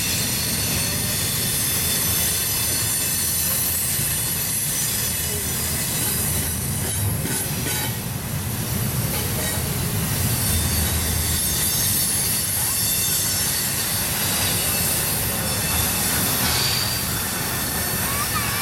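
Double-stack intermodal freight cars rolling past with a steady low rumble. Their wheel flanges give a continuous high squeal on the sharp curve.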